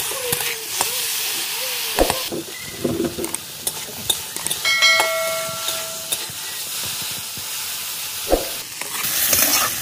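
Cut okra frying and sizzling in hot oil in an iron kadai while a metal ladle stirs and scrapes the pan. There are two sharp knocks, about two seconds in and just after eight seconds, and a brief ringing tone around the middle.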